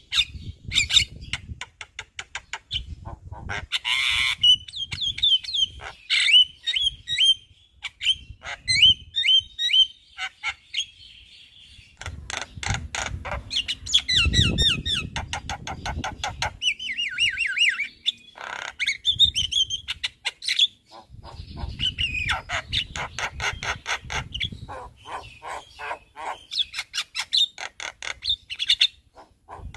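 Javan myna singing a busy, varied song of rapid clicks, chattering rattles and quick downward-sliding whistled notes, broken by short pauses. A low rumble sits under the song about halfway through.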